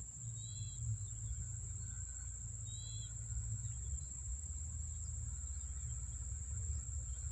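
Insects, likely crickets, droning in a steady high-pitched tone over a low rumble, with two short chirps in the first few seconds.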